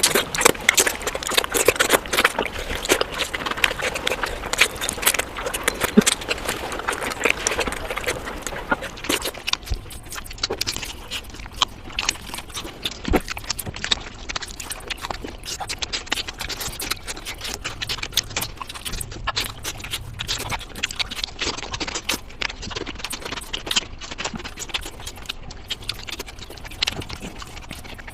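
Close-up eating sounds: wet chewing and lip smacking, many quick clicks, busiest for the first third and sparser after.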